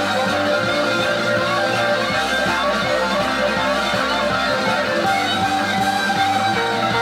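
Live southern rock band recording: electric lead guitars playing the fast extended solo over rhythm guitar, bass and drums.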